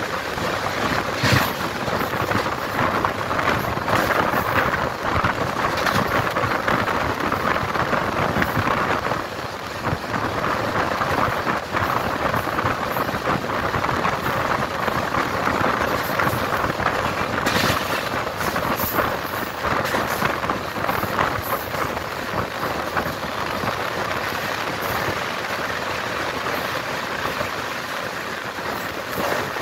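Passenger train coach running at about 110 km/h, heard at an open door or window: a steady rush of wind and wheel-on-rail noise, with frequent sharp clicks as the wheels run over rail joints and points.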